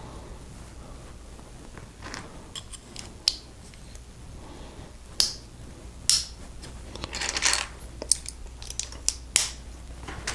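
Plastic LEGO bricks being handled and pressed together: a scattering of sharp clicks several seconds apart, with a short stretch of rustling in the middle.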